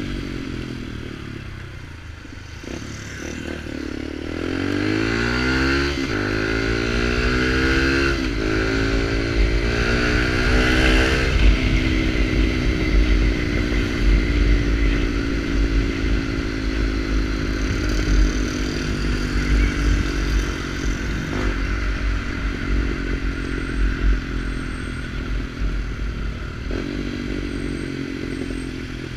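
Motorcycle with a sport exhaust accelerating through several gears, the engine note rising and dropping back at each upshift, then running at a steadier cruising note.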